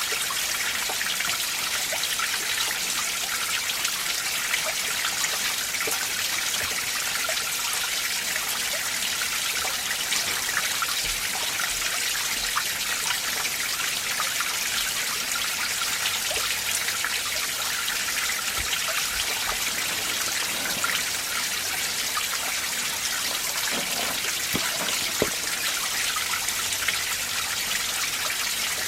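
Winter mountain stream, meltwater running steadily over rocks. It makes a constant bright rush of splashing and trickling, with many small splashes throughout.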